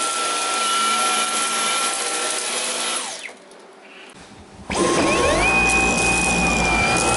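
Dyson V11 Animal cordless stick vacuum running on carpet in auto mode with a steady high whine. About three seconds in it is switched off and the motor winds down. About a second and a half later it starts again and spins back up to a steady whine.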